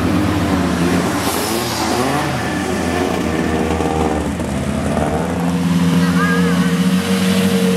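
Sports-car engines driving off at low speed, their pitch rising and falling; about five seconds in, a Lamborghini Murciélago's V12 close by, running steadily at low revs.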